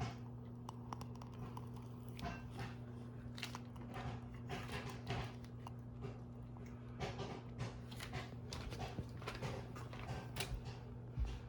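Irregular crunching and crackling, like something crunchy being chewed, over a steady low electrical hum.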